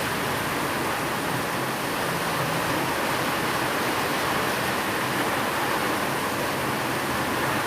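Steady rain, an even hiss with no let-up, with a faint low hum beneath it.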